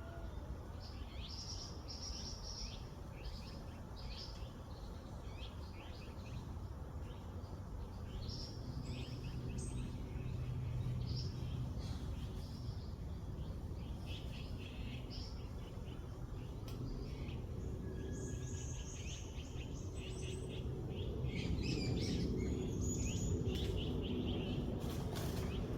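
Several small songbirds chirping and twittering in short repeated calls over a steady low outdoor rumble, the chirping growing busier and louder in the last few seconds.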